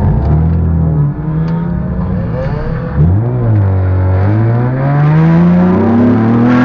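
Car engine running while driving, with a quick rise and fall in revs about three seconds in, then the engine pitch climbing steadily as the car accelerates.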